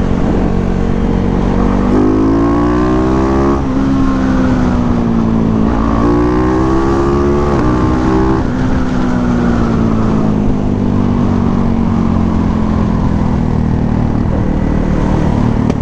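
Motorcycle engine under hard acceleration, its pitch climbing twice and dropping sharply at each gear change. It then falls slowly as the throttle eases off, over a steady rush of wind.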